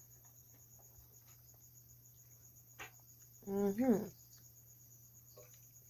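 Crickets chirping steadily in the night background over a low steady hum, with a few faint clicks. About three and a half seconds in, a person makes a short hummed sound that rises and falls in pitch.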